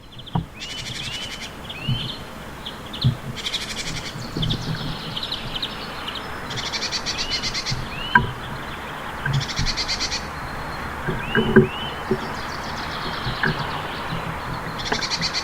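Small songbirds singing: short, rapid high trills repeat every few seconds among many short rising call notes. Scattered low knocks sound underneath.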